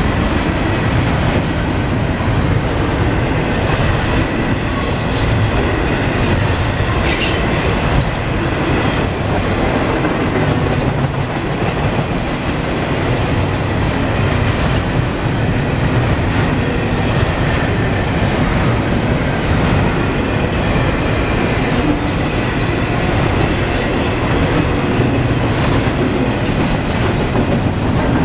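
A Norfolk Southern double-stack intermodal freight train's container well cars roll past at close range with a steady, loud rumble of steel wheels on the rails. Quick clicking from the wheels runs through it, along with a thin, high wheel squeal.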